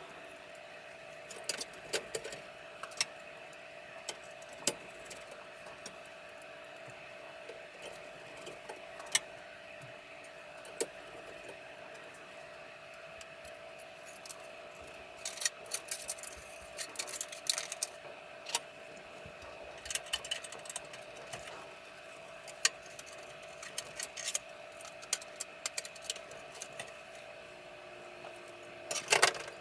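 Scattered small metallic clicks and clinks from parts being handled, thicker in the middle and near the end, over a steady faint whine.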